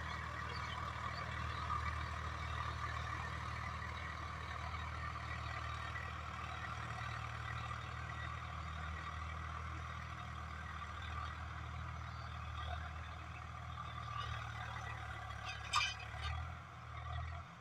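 Swaraj 744FE tractor's diesel engine running steadily while working a rotavator. A sharp click comes near the end, and the engine sound drops away just at the close.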